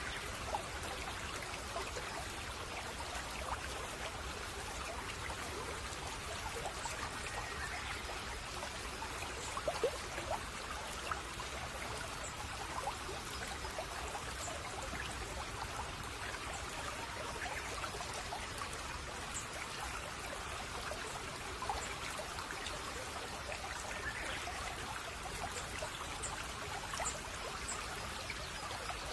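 Babbling brook: water trickling and gurgling over stones, with faint bird chirps here and there.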